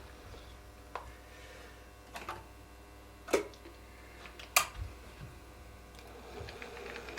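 A few separate sharp clicks and knocks, the two loudest about three and a half and four and a half seconds in, over a faint steady low hum.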